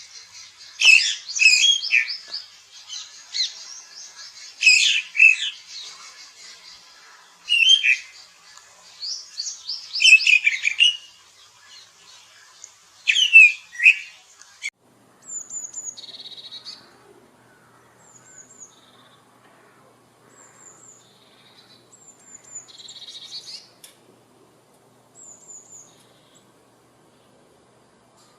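Birds chirping and squawking in shrill, loud bursts for about the first fourteen seconds. Then, after an abrupt change, a single bird gives short, high, downward-sliding whistles every two or three seconds, some with a brief chatter.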